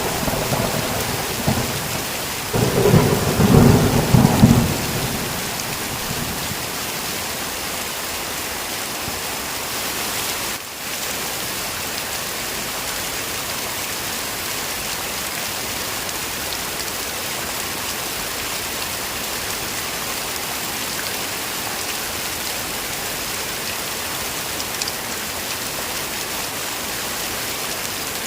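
Heavy rain falling steadily in an even hiss, with a loud roll of thunder from about two and a half to five seconds in that dies away, and a momentary dip in the rain about eleven seconds in.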